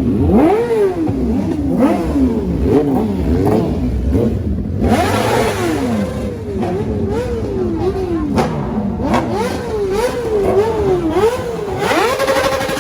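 Several sportbike engines revving and accelerating together, their engine notes rising and falling repeatedly over one another.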